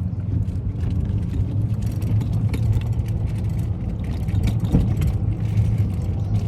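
Car driving along a road: a steady low rumble of engine and tyres, with faint scattered ticks and rattles over it.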